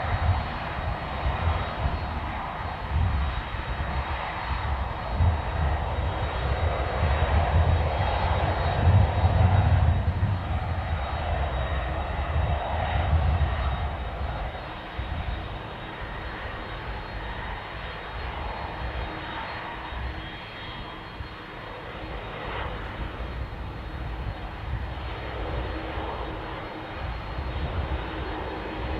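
Twin turbofan engines of an Airbus Beluga on its take-off run, a steady low rumble with a hiss over it. It is loudest about nine seconds in, then fades and stays lower as the aircraft moves away.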